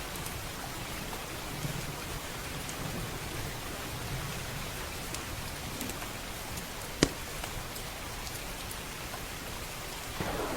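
Steady heavy rain with occasional sharp crackles from a wood fire in a stone fireplace, one loud pop about seven seconds in. A low rumble of thunder starts near the end.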